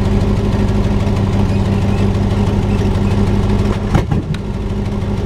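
A 7.5-litre 460 big-block V8 running with no exhaust, straight off the headers: a loud, steady idle, with a brief sharp blip about four seconds in.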